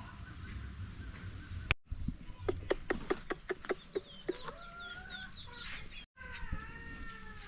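Chickens clucking in a quick run of short clucks, with short gliding calls between; the sound drops out briefly twice.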